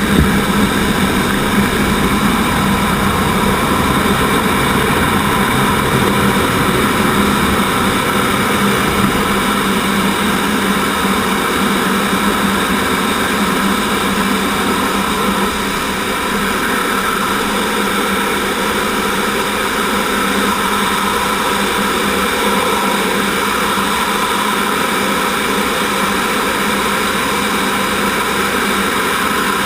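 Steady noise of a T-38 Talon's twin J85 turbojet engines heard from inside the cockpit: a loud, even rush with several steady whining tones over it. The low rumble eases a little about halfway through.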